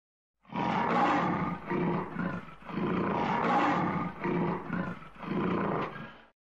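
Lion roaring: a run of about five roars, each rising and fading.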